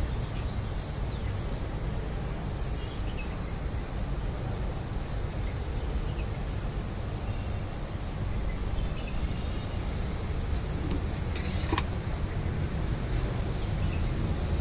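Outdoor background noise: a steady low rumble with faint, scattered bird chirps above it, and one sharp click near the end.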